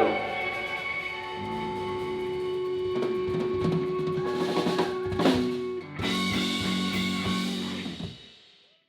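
Live band with guitars and drum kit playing the close of a song. A run of drum hits comes about three to five seconds in, then a final chord rings and fades out to silence near the end.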